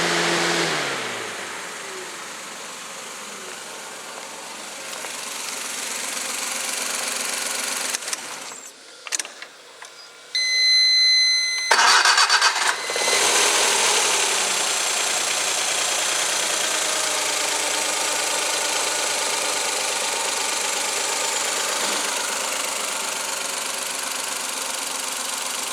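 Suzuki K6A 660 cc three-cylinder engine running, then switched off and winding down in the first second or so. About twelve seconds in it is started again with a sudden loud burst and settles into steady running.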